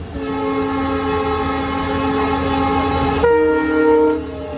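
Train horn sounding one long blast that changes to a different, louder chord about three seconds in and cuts off about a second later.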